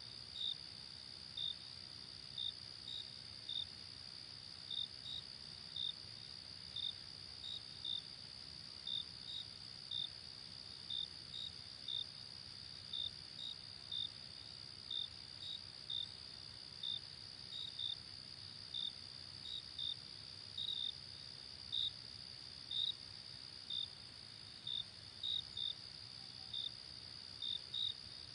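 Night insect chorus: a steady high-pitched trill with crickets chirping over it in short chirps, a little more than one a second at an uneven pace.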